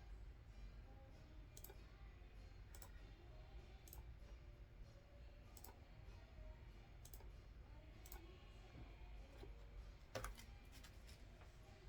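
Computer mouse clicking: single sharp clicks spaced irregularly, roughly one every second or two, with a louder quick cluster near the end, over a faint low room hum.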